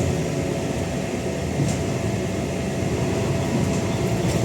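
Scania N94UD double-decker bus engine running steadily, a low drone with a faint steady whine above it.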